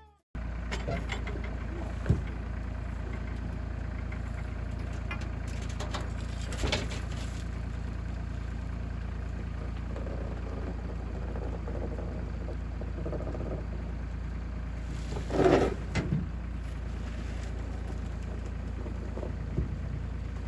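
An engine idling steadily with a low, even rumble. A few short knocks or clunks come through it, the loudest brief sound about fifteen seconds in.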